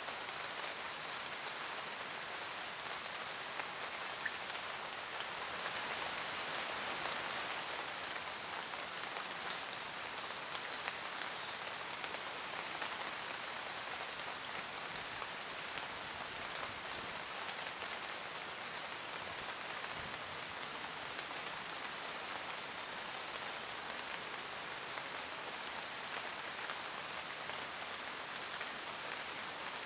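Steady rain falling in a forest, a dense even patter of drops on leaves and ground with scattered individual drip ticks.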